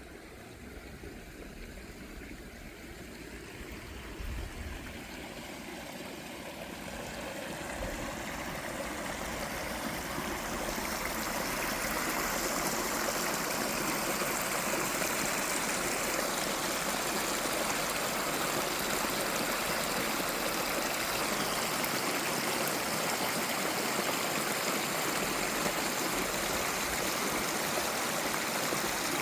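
Rushing water of a stream, a steady noise that grows louder over the first ten seconds or so and then holds.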